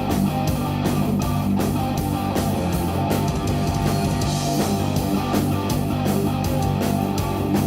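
Live instrumental jazz-rock fusion from a guitar, bass and drums trio: electric guitar over a steady, prominent bass line, with drum hits throughout.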